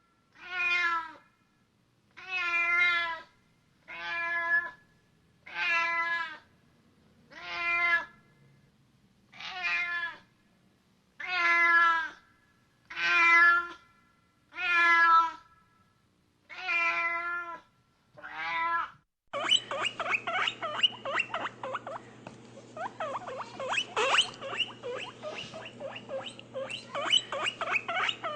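A cat meowing over and over, about eleven wavering meows one every couple of seconds. About two-thirds of the way in it switches to a small rodent's rapid, chattering squeaks over a steady low hum.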